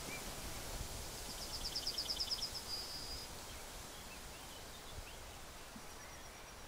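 A songbird singing a quick run of about ten high, evenly repeated notes that ends in a short flat trill, followed by a few faint chirps, over a steady outdoor background hush.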